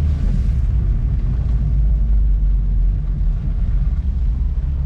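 Car engine running at a steady pitch, with low road rumble, heard from inside the cabin while driving on track.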